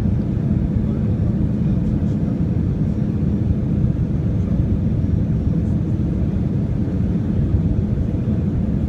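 Steady low rumble of an Airbus A319 airliner heard from inside the passenger cabin: engine and airflow noise.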